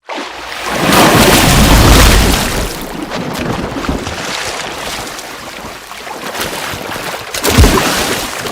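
Heavy water splashing and churning as a polar bear plunges into the sea after a seal. The splashing is loudest in the first two seconds, with another splash near the end.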